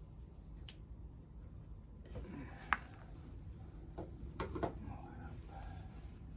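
A few scattered light clicks and knocks, typical of tools and small engine parts being handled, with one sharp click about two and a half seconds in, over a low steady hum.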